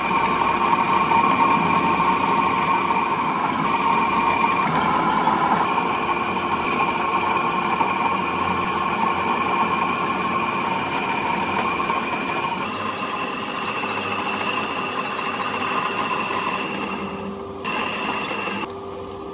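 A workshop machine running steadily with a constant whine over a dense mechanical noise; the whine steps up in pitch about two-thirds of the way through and the sound drops in level near the end.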